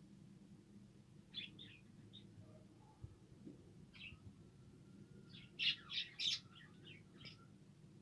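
Budgerigars chirping and squawking in short, scattered calls, with a louder burst of several quick calls about six seconds in.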